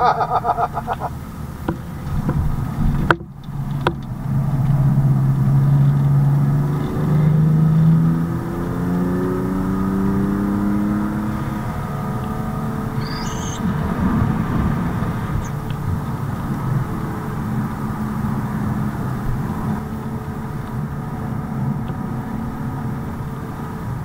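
BMW M4's twin-turbo straight-six heard from inside the cabin, accelerating hard with its pitch climbing, loudest in the first half, then settling into a steadier, quieter run under tyre and road noise. The sound breaks off briefly about three seconds in.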